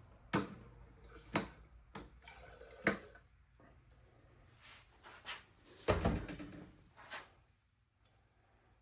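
A series of light knocks and clunks of things being handled and set down, about seven in all, the loudest about six seconds in.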